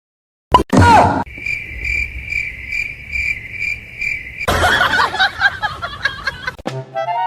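Cricket chirping: a steady high trill pulsing about two to three times a second for about three seconds, after a short loud burst about half a second in. A louder, noisier stretch follows, and music starts near the end.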